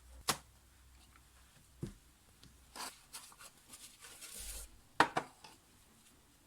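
Small hard objects being handled and set down: scattered sharp clicks and taps, the loudest a quick pair about five seconds in, with a brief rustle just before them.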